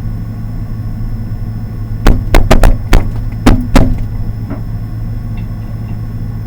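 A quick run of about seven sharp knocks and clicks over a steady low hum.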